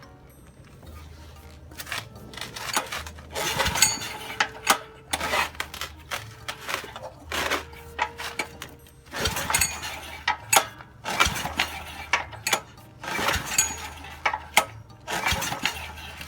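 Mitsubishi G710L small engine being started, running only in short bursts of a second or so that die away again: an engine that will not hold an idle and keeps stalling.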